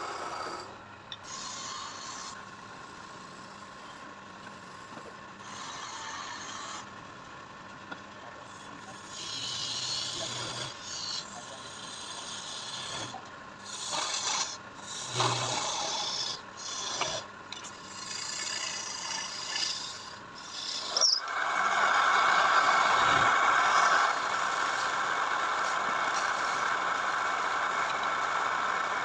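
Wood being scraped and rubbed by hand in irregular strokes, with a few sharp knocks. About 21 seconds in it gives way to a louder, steadier scraping noise.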